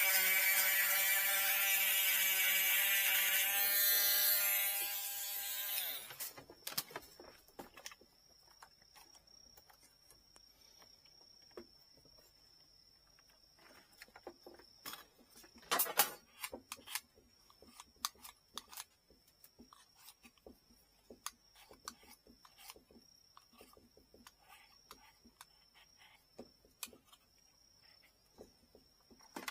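Small electric hand tool's motor running steadily, then switched off about four seconds in and spinning down over a couple of seconds. It is followed by scattered light clicks and taps of handwork.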